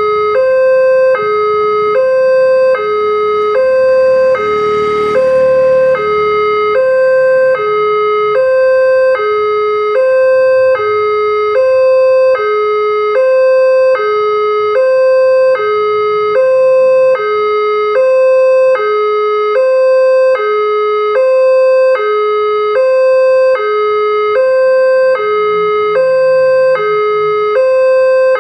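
Railway level-crossing warning alarm sounding: an electronic two-tone chime that keeps alternating high and low, one full high-low cycle about every 1.7 seconds, the warning that a train is coming and the barriers are closing. A broad rush of noise swells and fades about four to six seconds in.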